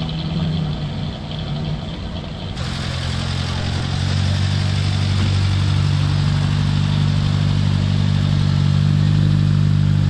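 Car engine idling close by with a steady low note, the sound changing abruptly about two and a half seconds in and growing louder from about four seconds in.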